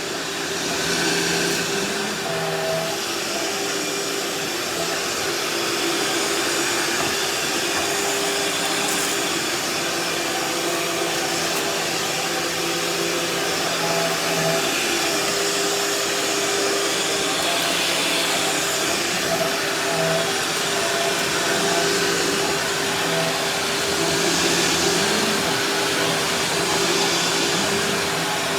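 Bagless vacuum cleaner running steadily with a continuous motor whine and airflow rush, swelling slightly as it is pushed over the floor.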